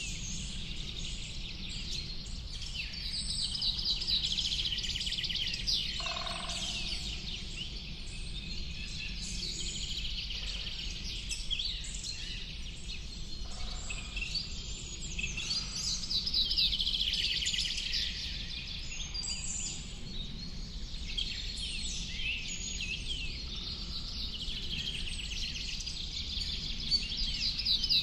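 Birdsong chorus: several birds singing at once, a dense run of overlapping rapid chirps and trills, over a steady low background rumble.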